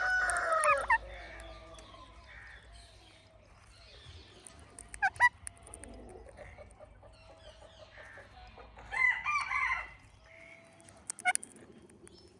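Indian ringneck parrot calling: short, sharp calls about five seconds in and again near the end, and a cluster of calls around nine seconds. A long drawn-out call fades out about a second in.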